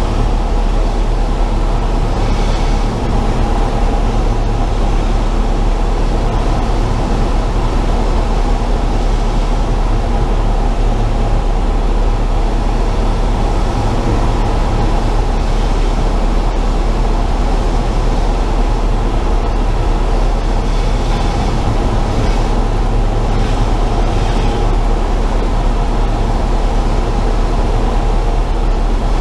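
Cessna 172 in flight heard from inside the cabin: a loud, steady drone of the piston engine and propeller with airflow, unchanging throughout.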